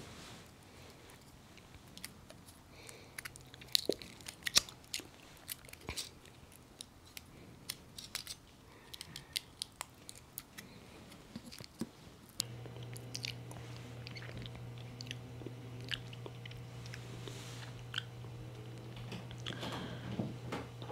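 Close-up chewing and crunching of liqueur-filled chocolate bottles, with many short sharp clicks and snaps of the mouth. About twelve seconds in, a low steady hum starts and keeps going.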